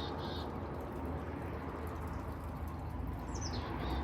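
A small songbird calls twice, about three and a half seconds apart: each time a quick high note that slides down, followed by a short lower note. Under it runs a steady low outdoor rumble.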